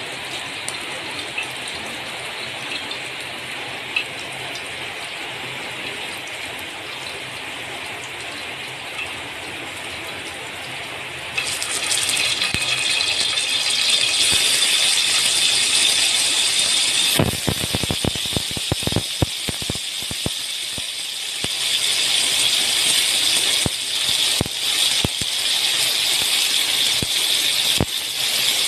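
Boiled chicken pieces frying in hot oil in a metal wok: a quiet steady hiss that jumps to loud sizzling about eleven seconds in as the pieces go in. From about halfway through there are many sharp clicks and pops from spattering oil and tongs against the pan.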